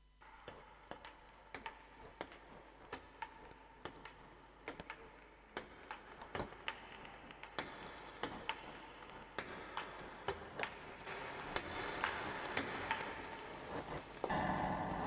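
Glitchy ambient electronic texture from a synthesizer and sampler setup: sparse, irregular clicks and pings, two or three a second, over a hiss that slowly swells. A fuller, louder tone comes in about a second before the end.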